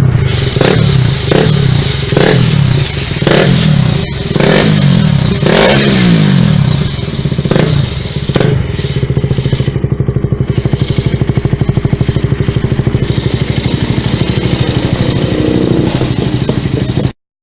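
KTM Duke 200 single-cylinder engine through an Akrapovic tri-oval exhaust, blipped repeatedly, about once a second, for the first eight seconds or so, then settling to a steady idle. The sound cuts off abruptly just before the end.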